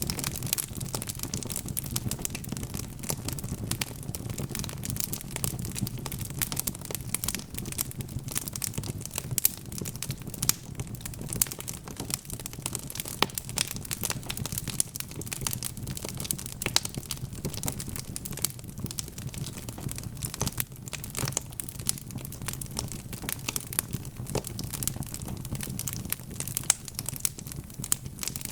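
Wood fire crackling, with many small irregular pops and snaps over a low, steady rumble of flames.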